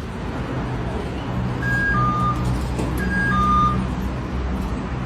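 A steady low, engine-like rumble with a two-note electronic beep, a higher tone then a lower one, repeating three times.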